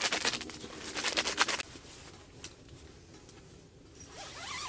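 Disposable hand-warmer packets shaken quickly, a rapid run of rustling shakes that stops about a second and a half in. Faint rustling follows.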